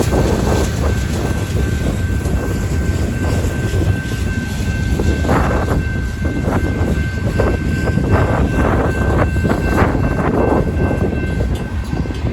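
Freight cars of a CSX manifest train rolling past: a steady low rumble with irregular clanks and knocks from the wheels and couplers, and a thin steady high tone running through it. Wind on the microphone adds to the low rumble.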